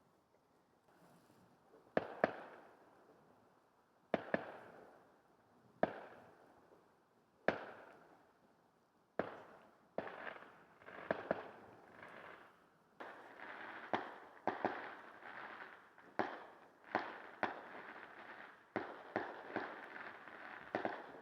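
Fireworks shells bursting, each one a sharp bang that trails off. The bangs are a second or two apart at first, then come faster and overlap from about halfway through.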